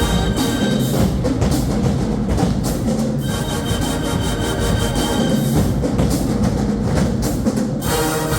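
Marching band playing: held chords over steady drum beats.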